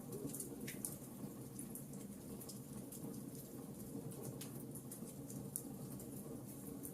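Burning wood logs crackling: irregular small pops and snaps over a steady low hiss, with a couple of louder snaps about a second in and just past the middle.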